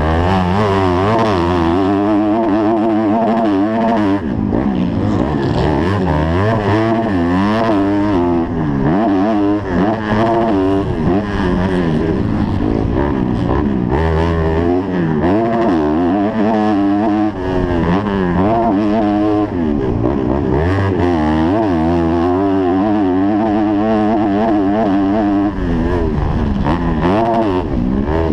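A 250-class motocross bike's engine, heard from the rider's helmet, revving up and dropping back over and over as the throttle is worked and gears change through the race.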